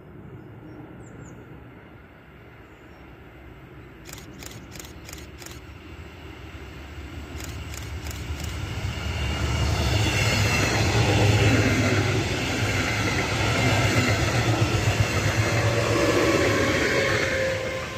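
Electric trains passing on an overhead-wired main line: a red double-deck regional train and a dark electric locomotive. The rumble of wheels on rail swells from about eight seconds in, stays loud through most of the rest, and drops off near the end, where a steady whine is heard.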